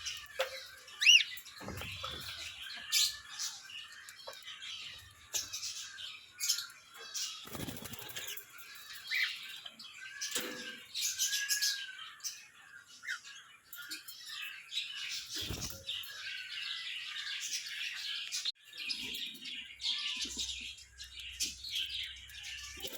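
A conure bathing: repeated bursts of splashing and wing fluttering in water, with short chirps among them and one loud, high chirp about a second in.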